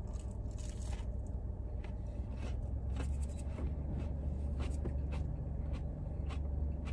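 A person chewing a crispy breaded onion ring, with soft, irregular crunches, over a steady low rumble inside a car cabin.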